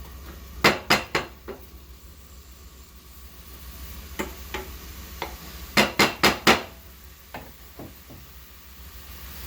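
Metal cookware and utensils clanking: a series of sharp knocks, including a quick run of four loud ones a little past the middle.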